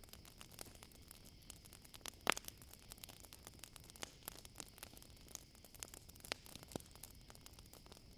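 Wood fire crackling: irregular sharp pops and snaps, the loudest about two seconds in, over a steady high trill of crickets.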